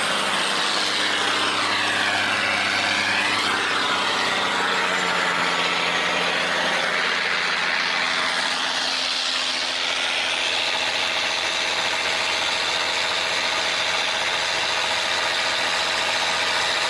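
Tugboat's diesel engine running steadily under load, with a constant rushing hiss over its drone.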